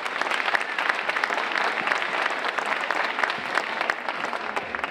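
Audience of schoolchildren clapping, many hands at once, the applause dying away at the end.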